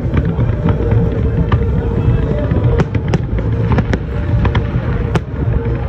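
A fireworks display going off: continuous low booming with many sharp, scattered crackles and pops.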